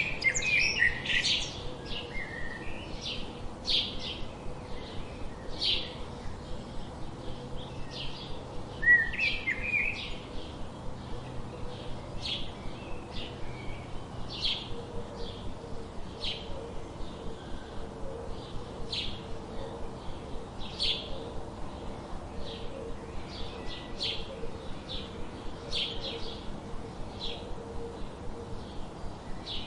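Songbirds chirping: a steady run of short, high chirps about every half second to second, with louder flurries of calls at the start and again about nine seconds in. A faint, steady low tone runs underneath in the second half.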